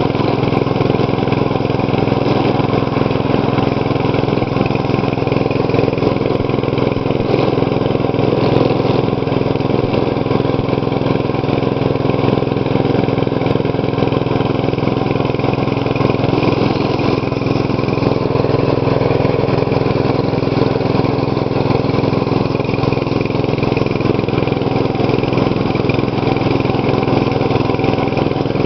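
Lawn tractor engine running steadily at one even speed, with no revving or change in pitch.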